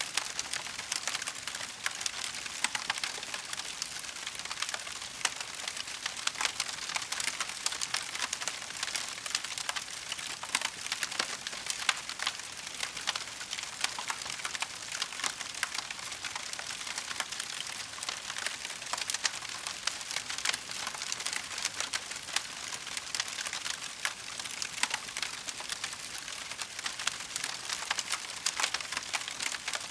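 Wood fire burning in a fireplace, crackling steadily with a dense run of small pops and snaps over a soft hiss.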